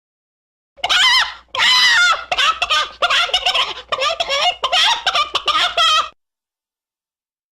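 Chicken clucking and squawking in a rapid series of loud, pitched calls, starting about a second in and stopping abruptly about a second and a half before the end.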